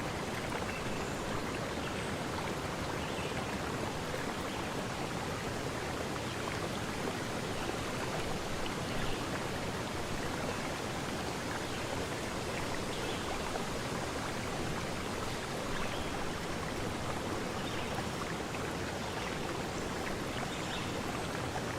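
A forest stream running steadily, an even rushing of water with small splashes here and there.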